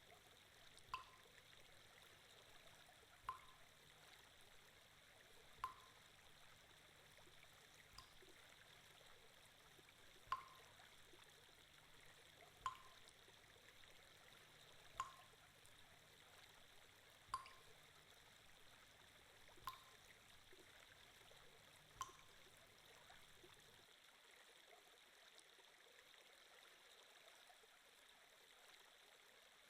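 Faint water sound effect: a steady soft trickle with a single drip plinking about every two and a half seconds, ten drips in all, stopping about 22 seconds in. A low hum underneath cuts out shortly after.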